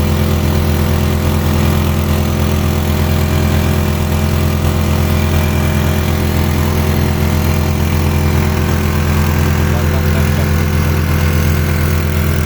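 Tomking 4 hp outboard motor running steadily at an even speed.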